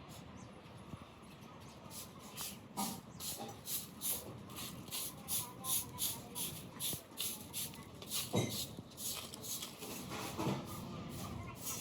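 Rhythmic scraping strokes, about two a second, with a louder knock about eight seconds in and another near ten seconds.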